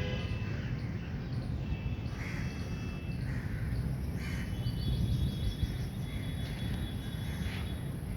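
Birds calling outdoors: short harsh calls about once a second, with a stretch of quick high chatter near the middle, over a steady low rumble.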